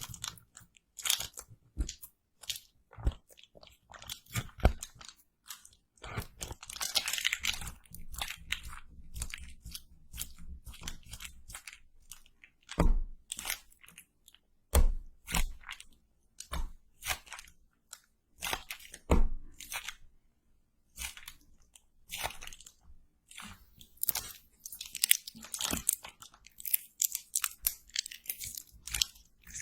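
Close-miked ASMR crunching and crackling: irregular sharp crunches and clicks, with denser crackly stretches and a short pause about two-thirds of the way through.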